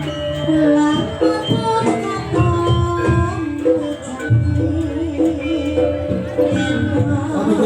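Live Javanese jaranan ensemble music: a melodic lead line of held, stepping notes over drumming.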